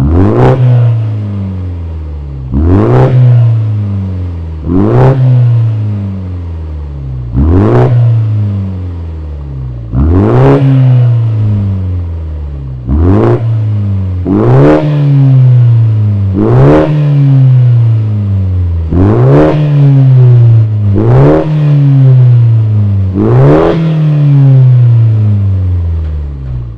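BMW 128ti F40's turbocharged four-cylinder engine breathing through a Milltek valved exhaust, revved in about eleven sharp blips every two to two and a half seconds, each rising quickly in pitch and falling back more slowly.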